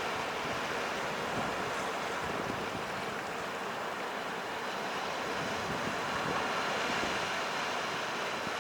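Ocean surf: a steady rush of waves breaking on the shore, with wind.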